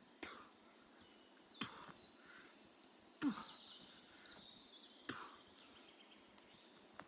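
A person exercising on the forest floor: five dull thuds, one every one and a half to two seconds, the loudest about three seconds in. Faint high bird calls sound in the middle.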